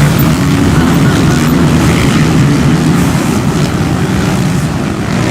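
Motocross bike engines running hard, a loud steady drone whose pitch wavers slightly throughout.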